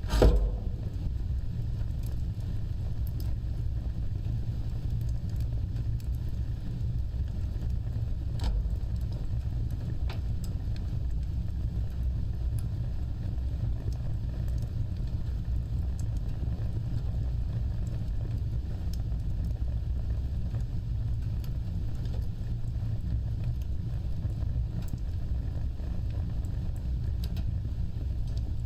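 Wood fire burning with a steady low rumble and scattered sharp crackles. There is a loud pop right at the start and another about eight seconds in.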